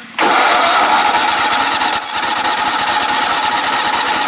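Modified riding lawn mower's small engine suddenly coming to life a moment in, then running loud and steady at high speed with a rapid, even firing beat.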